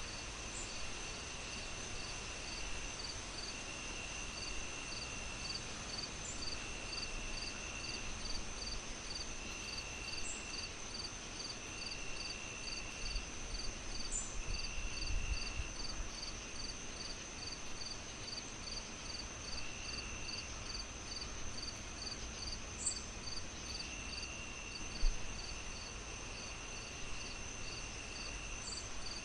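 Crickets and other insects chirping in overlapping songs: a steady high trill, a chirp pulsing about three times a second, and a lower trill that starts and stops every second or two. A faint low rumble lies underneath, with a soft thump near the end.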